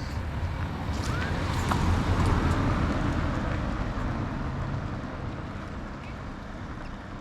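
A road vehicle passing: a low rumble that swells to its loudest about two seconds in, then slowly fades away.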